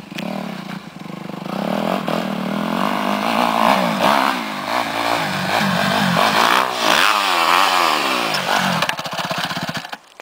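Dirt bike engine revving, its pitch rising and falling several times as the throttle is worked, then cutting off abruptly near the end.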